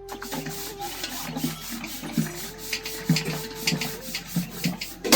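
Repeated rubbing or scraping strokes, roughly two a second, over a faint held tone that shifts in pitch a few times.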